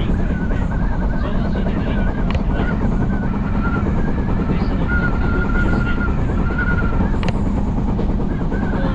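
Odakyu Line electric commuter train running along the track: a steady rolling rumble, with a wavering high whine that comes and goes and a few sharp clicks.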